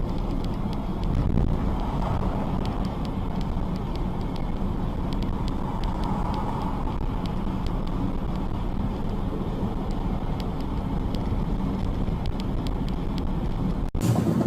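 Steady rumble of a car on the move, engine and road noise with no crash heard, cutting off abruptly near the end.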